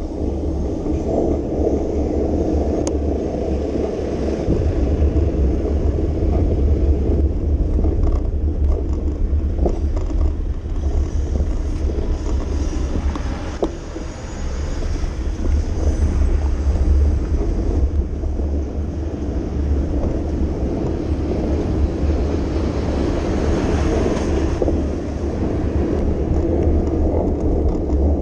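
Steady rumble of a bicycle rolling over city pavement, with wind on the microphone; a hiss swells briefly near the end.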